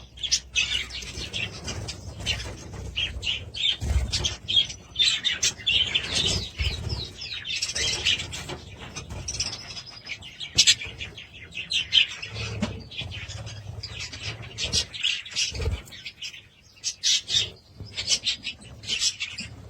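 Budgerigars chirping and chattering in quick, dense bursts of high chirps, with a few soft low thuds of wing flutter among them.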